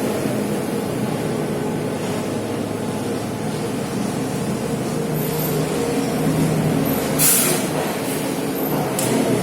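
A heavy engine running steadily with a low drone, and two short hisses of air near the end.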